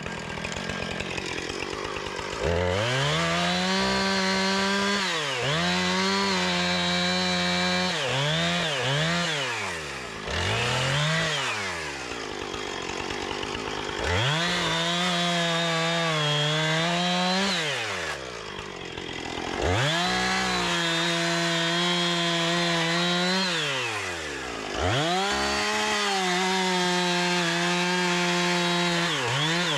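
Gas chainsaw revved to full throttle again and again, each time held for one to five seconds before it drops back to idle, as it cuts through brush and wood.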